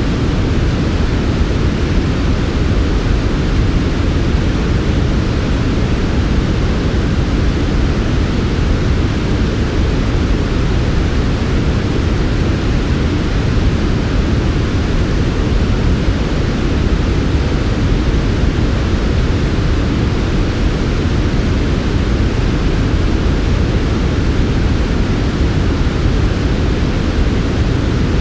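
Steady white noise from a sleep-sound track, unchanging throughout, with most of its weight in the low end and little in the highs, so it sounds soft rather than hissy.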